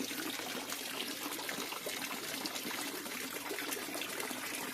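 Water trickling and splashing steadily, with many small splashes and drips at the surface.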